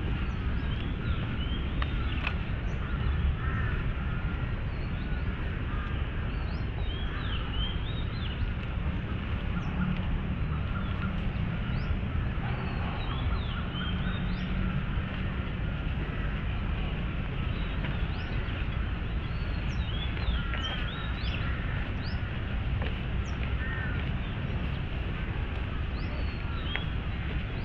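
Many birds chirping and calling in short notes throughout, over a steady low rumble.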